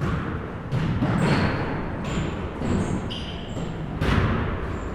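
Basketball bouncing on a gym's hardwood court, several irregularly spaced thuds, mixed with short high squeaks of sneakers on the floor, all echoing in a large hall.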